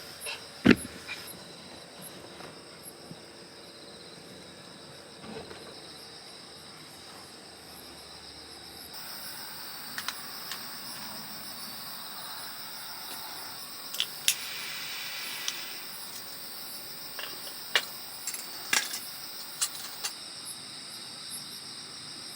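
A steady, high-pitched chorus of insects, with a few sharp clicks and knocks scattered through it.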